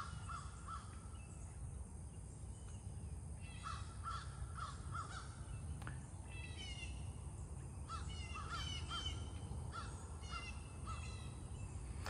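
Birds calling: several series of short, repeated calls over a low steady rumble.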